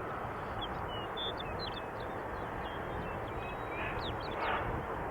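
Birds chirping outdoors: many brief, high chirps scattered over a steady low rumble.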